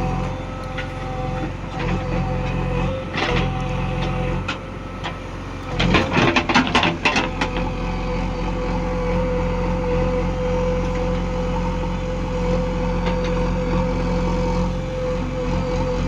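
Heavy diesel engine running steadily, with a burst of clattering knocks about six seconds in, lasting a second or so.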